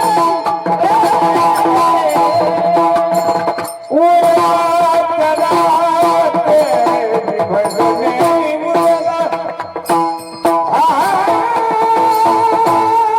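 Marathi kirtan music: a singer's melody over sustained instrument tones and hand-drum and percussion accompaniment. There are two short drops in loudness, at about 4 s and 10 s, each followed by a new sung phrase.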